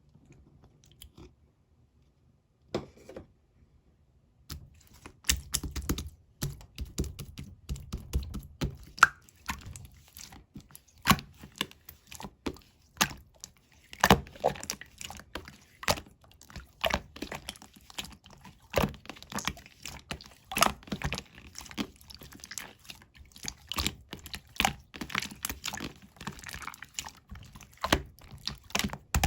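Irregular sharp clicks and crackles from something being handled close to the microphone. They are sparse at first and turn into a dense, uneven run a few seconds in.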